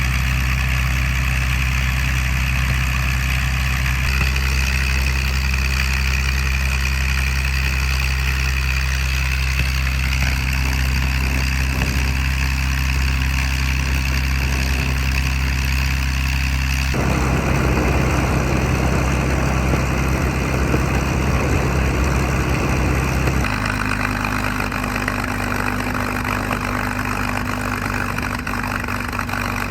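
P-51 Mustang's Merlin V-12 engine running steadily. Its tone shifts suddenly a few times: about 17 seconds in it turns rougher and noisier, and some six seconds later it settles into a different steady tone.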